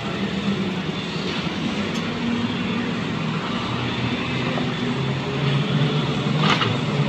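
Car running with steady engine and road noise. There is a brief, sharper noise about six and a half seconds in.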